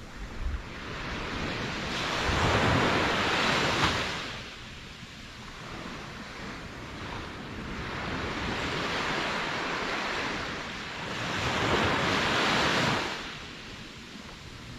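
Ocean waves surging in and washing back, two swells in turn: the first peaks about three seconds in and fades, the second builds slowly and peaks near twelve seconds.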